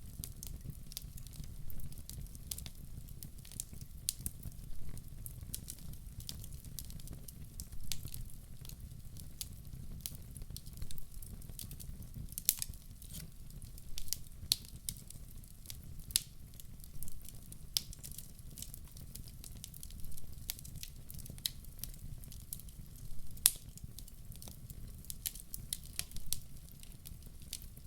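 Wood fire burning in a fireplace: irregular crackles and sharp pops every second or so over a steady low rumble, with one louder pop near the end.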